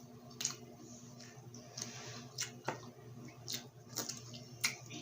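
Close-miked eating of grilled street food: wet chewing with about seven sharp mouth clicks and smacks, over a steady low electrical hum.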